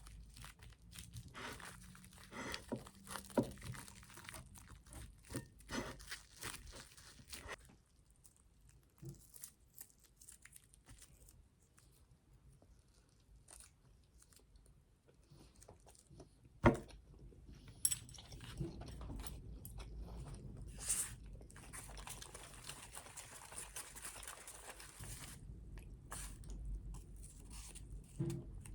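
Small handling sounds: scattered clicks and rustles, then a quieter stretch, then a single sharp knock past the middle followed by a low steady hiss with a few more clicks.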